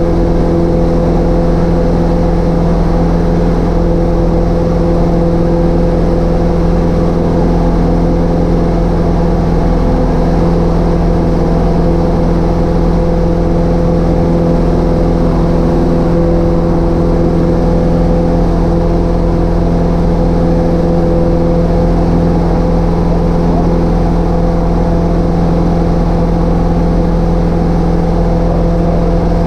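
Cessna 152's four-cylinder Lycoming engine and propeller running at a steady, unchanging speed.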